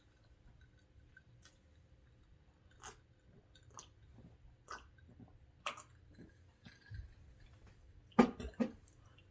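A person eating egg boil with noodles close to the microphone: chewing with short, wet mouth clicks about a second apart, and the loudest pair of clicks near the end.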